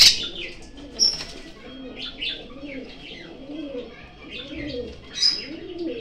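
Small caged birds chirping in short high calls, the loudest about a second in and near the end, over a run of low repeated cooing.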